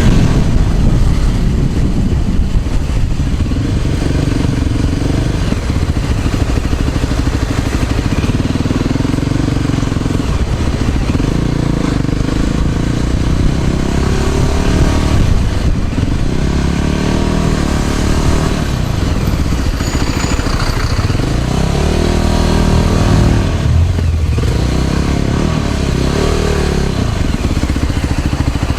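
Motor vehicle engines in road traffic, rising and falling as they pass, over a steady low rumble of wind on the microphone while riding.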